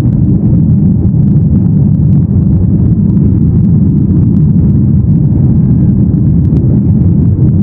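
Boeing 737-800 cabin noise in flight: a steady low rumble of the CFM56-7B jet engines and the airflow over the fuselage.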